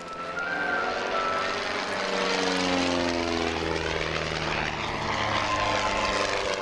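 Propeller engines of a pair of Mudry CAP 10 aerobatic planes flying past, getting louder about a second in, with the engine note sliding down in pitch as they go by.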